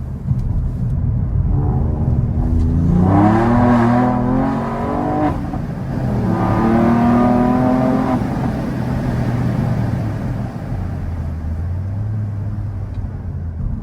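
Ford Fiesta ST Mk8's turbocharged 1.5-litre three-cylinder engine and exhaust revving: the pitch climbs and holds twice, about three seconds in and again about six seconds in, with the engine running lower and steadier between and towards the end.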